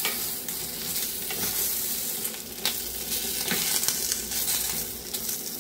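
Eggplant slices sizzling as they fry in hot oil in a pan, stirred and turned with a wooden spatula, with a few knocks of the spatula against the pan.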